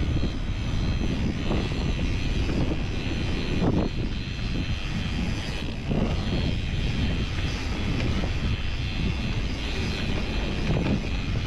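Wind rushing over the microphone of a mountain bike descending a dirt trail, mixed with tyres rolling over dirt and rock and a few knocks from bumps.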